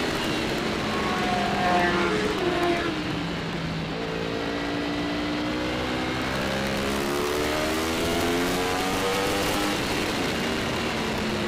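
Superbike racing motorcycle engine running on track, its pitch rising and falling with the throttle, with a long climb in revs through the middle.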